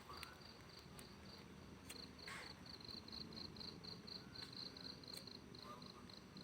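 Faint cricket chirping, a steady high pulse repeating about five times a second, with a few soft clicks in the first half.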